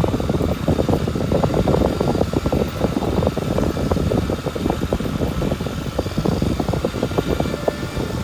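Kawasaki Super Sherpa's single-cylinder four-stroke engine running under way on an unpaved forest road, with a steady rush of noise and a dense clatter of small knocks and ticks from the rough surface under the tyres.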